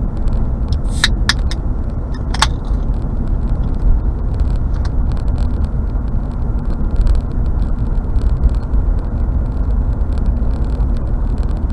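Steady road noise inside a car's cabin while driving on the highway: a low rumble of tyres and engine. A few brief clicks come in about a second in.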